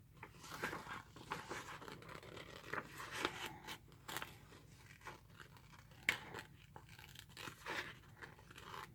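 Soft paper rustling and crinkling, with scattered small clicks and snips, as paper embellishments are handled and cut.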